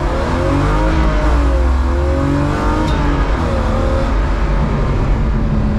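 BMW E36 325i's straight-six engine heard from inside the car's cabin while driving on track. It runs loud and steady, its pitch falling and rising several times as the throttle comes off and goes back on.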